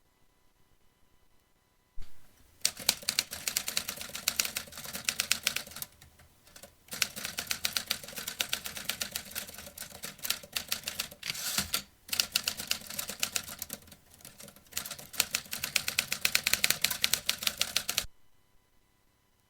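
Vintage typewriter being typed on: fast runs of key strikes in several bursts with short pauses between them. It begins with a knock about two seconds in and stops suddenly near the end.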